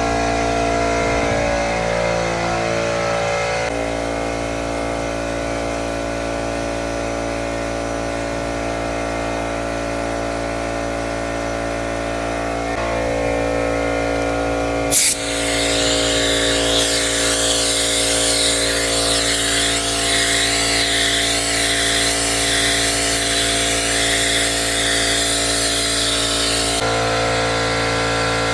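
Air compressor running steadily. About halfway through there is a click, then a loud air hiss for about twelve seconds from a compressed-air vacuum brake bleeder pulling fluid and air through the motorcycle's brake lines.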